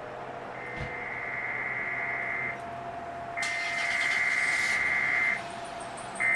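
Emergency Alert System SAME header data bursts from a cable TV override: a buzzing electronic data tone sent three times, each about two seconds long with a short gap between, the third starting near the end. It marks the start of an EAS alert. A brief low thump comes about a second in.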